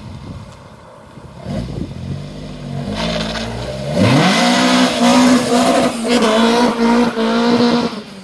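Classic saloon car accelerating hard. Its engine revs climb over the first few seconds, then it runs loud at high revs with several brief dips, and the note drops at the end.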